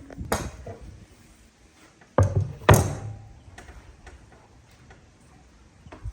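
Three knocks in a workshop: one just after the start, then two close together a little over two seconds in, the second the loudest, with a few fainter ticks between.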